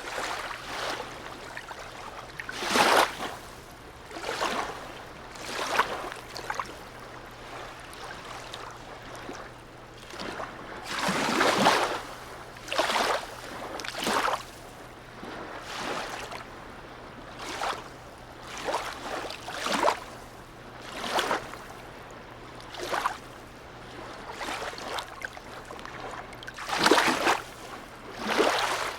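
Harbour sea water lapping and splashing in small waves, in irregular slaps every second or two with a few louder splashes among them. A faint steady low hum lies underneath.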